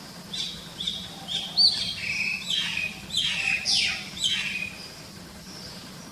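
Pet crested myna calling: a quick run of short whistles and harsh chattering notes lasting about four seconds, then it stops.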